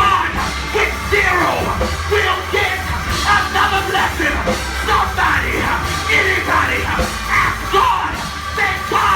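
A preacher's voice shouting and chanting in a sung, half-musical style, carried over steady instrumental backing music.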